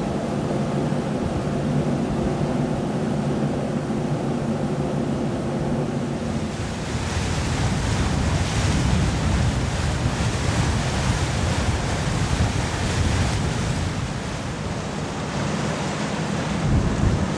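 A steady mechanical hum with several held low tones. About six seconds in it gives way to a loud rushing of wind and sea surf.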